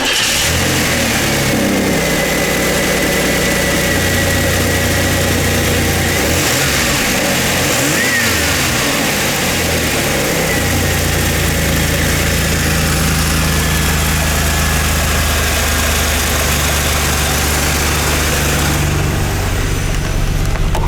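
1991 Pontiac Firebird 3.1L V6 engine running at a steady idle, blipped once about six seconds in: the pitch rises and falls back to idle by about ten seconds.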